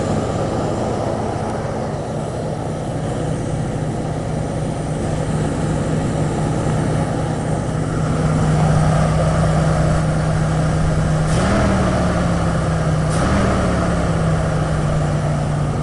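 Ford 302 V8 with a two-barrel carburetor idling steadily on a cold start. It briefly picks up speed twice near the end. The carburetor is new and still needs adjusting.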